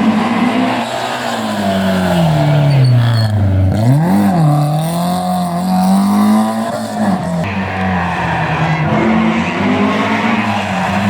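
Historic rally car's engine running hard on a stage. The revs drop steadily, then a quick throttle blip comes about four seconds in, and the revs hold high with smaller dips and rises near the end.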